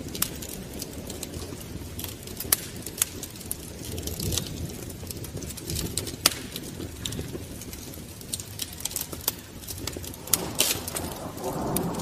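Wood fire crackling in a fireplace: irregular sharp pops and snaps over a low, steady rumble of flame, with a louder pop about six seconds in.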